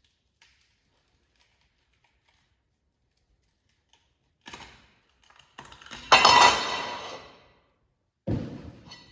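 Steel wheel rims clanking against metal: a small knock about halfway through, a loud ringing clang about six seconds in that dies away over a second or so, and a dull thunk near the end.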